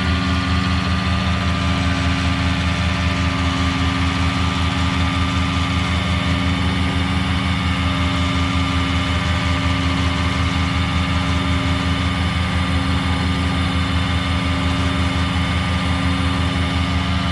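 Tow truck's engine held at a raised idle to power the winch during a recovery pull, running steadily with a fast, even low throb.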